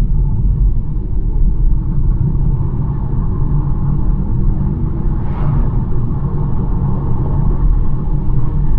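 BMW 1 Series driving along at a steady pace: a low, even rumble of engine and tyre noise, with a brief whoosh about five seconds in.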